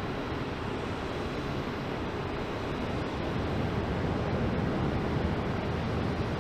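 Distant jet airliner engines running up on the takeoff roll: a steady rushing roar that slowly grows louder.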